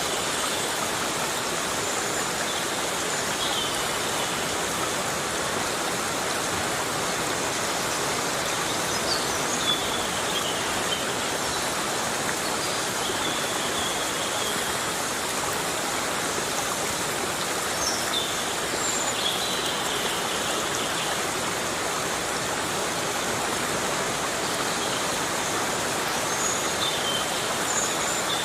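Heavy rain falling steadily, a dense, even hiss of water that holds the same level throughout, with a few faint high chirps now and then.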